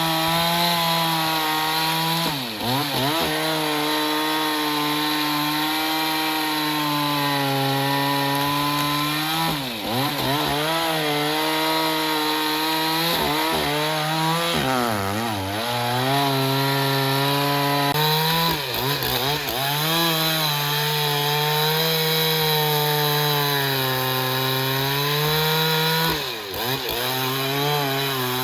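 Engine-driven saw cutting through a black teak log with a steady engine note. Its pitch sags briefly under the load and recovers about four times.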